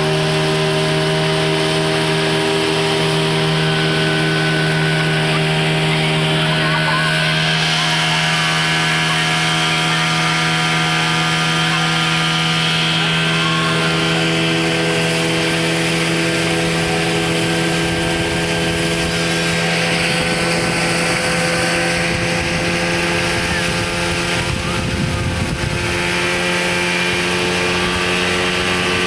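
Speedboat engine running steadily at high revs under way, with a constant drone and the rush of water and wind around the hull. Near the end there is a brief rumbling patch of wind or splash noise.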